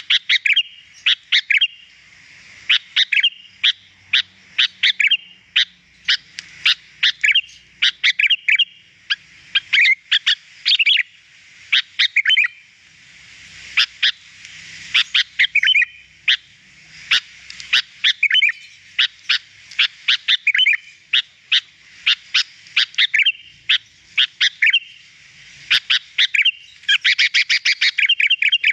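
Sooty-headed bulbul (kutilang) singing: bursts of quick, high chirping and whistled phrases with short gaps, turning into a fast, continuous run of chirps near the end.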